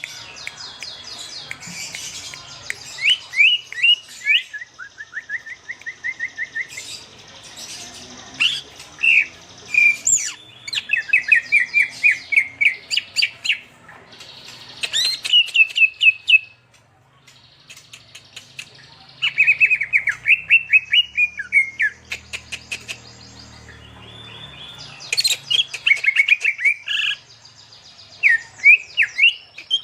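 Kept songbirds singing in phrases of rapid, repeated chirps and short trills, with brief pauses between phrases.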